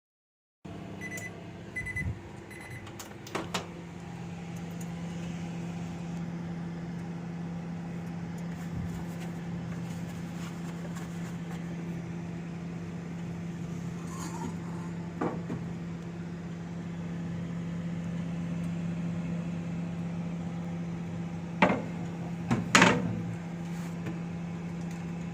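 Microwave oven keypad beeping three times, a click as it starts, then the oven running with a steady hum while it heats a bowl of water. A few loud clicks come near the end.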